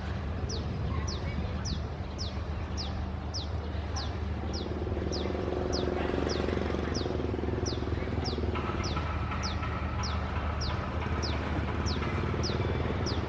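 Diesel locomotive engine running with a steady low hum, a higher tone joining in about two-thirds of the way through. Over it, a bird repeats short, high, falling chirps about twice a second.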